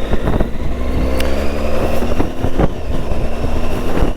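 Triumph Tiger 800's three-cylinder engine running at steady revs while the motorcycle rides along a trail, with a few short knocks over it.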